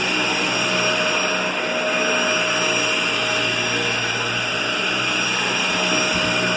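Vacuum cleaner running steadily, a constant motor hum with a high whine that does not change.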